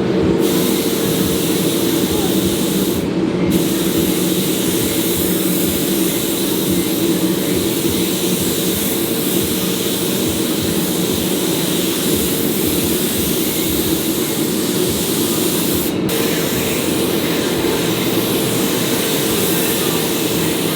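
Paint spray gun hissing steadily as it lays down a coat of blue pearl paint, the air cutting off briefly twice when the trigger is let go.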